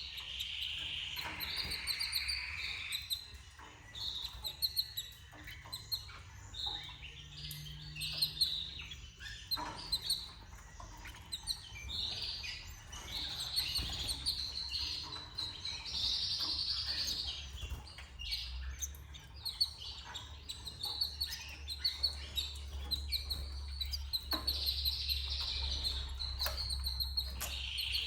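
Canaries chirping and calling in many short, high chirps and trills, with a low steady hum underneath.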